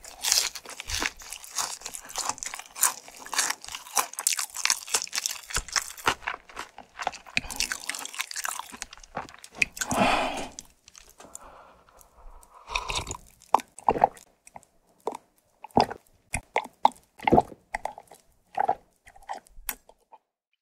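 Close-miked crunching and chewing of a crispy boneless fried chicken piece with Puringkle cheese seasoning. The crunching is dense for about the first nine seconds, then thins to separate wet mouth clicks and swallows.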